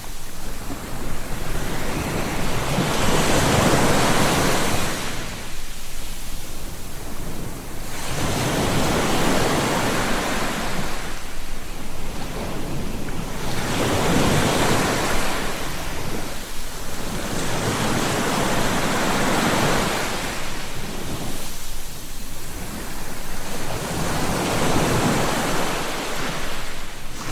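Ocean waves breaking and washing on a shore, each surge of surf swelling and falling away about every four to five seconds, with a steady rush between them.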